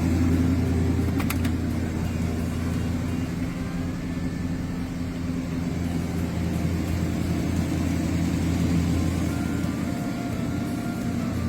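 A Ford Galaxie's 289 V8 engine running at a steady speed, with a brief click about a second in.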